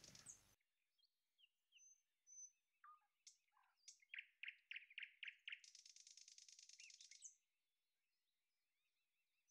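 Faint birdsong: scattered high chirps and whistles, with a quick run of about six chirps near the middle.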